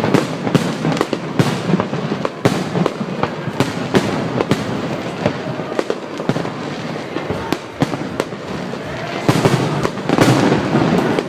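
New Year fireworks going off all around in a dense barrage, many bangs and crackles a second. The barrage grows louder and thicker about nine seconds in.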